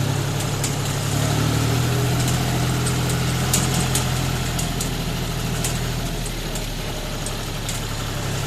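John Deere tractor's diesel engine running steadily while hauling a loaded trolley, with light sharp clicks and rattles over the engine hum. The engine note drops a little about six seconds in.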